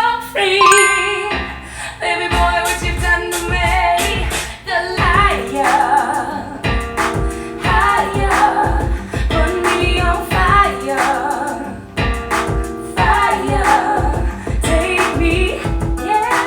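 A pop song with a female singer and a steady bass beat, played back through car-audio component speakers.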